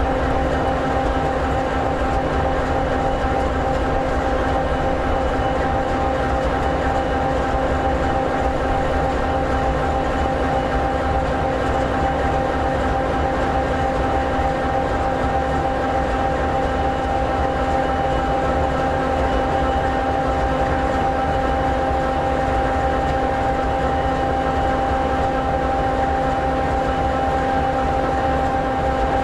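EMD SD60E locomotive's 16-cylinder 710G3B two-stroke diesel engine idling: a steady low rumble with a steady whine held over it, unchanging throughout.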